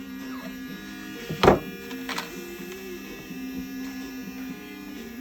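Battery-powered Dremel rotary tool with a 60-grit disc running steadily, a small-motor whine, while grinding back damaged material on a sailing dinghy foil. A sharp knock comes about one and a half seconds in.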